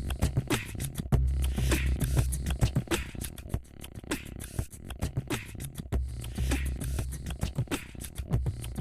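Beatbox-style music: fast vocal clicks and percussive hits over a heavy deep bass line. The bass drops back for a couple of seconds in the middle, then returns.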